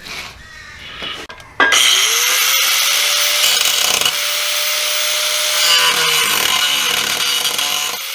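A high-speed power cutting tool spins up with a rising whine about a second and a half in, then runs steadily under load, cutting into the car's rear sheet-metal body to make clearance.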